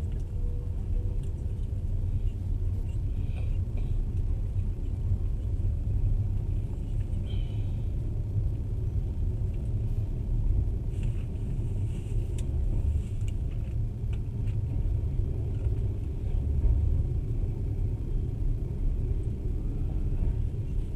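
Steady low rumble of train wheels rolling on rails, heard from inside a passenger carriage while a freight train of gondola and tank cars runs alongside on the next track, with a few brief faint high squeaks.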